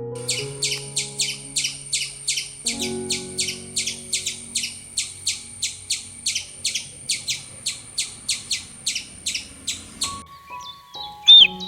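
High, rapid chirping, about four chirps a second, over background music; it stops about ten seconds in and a short, sharp call follows.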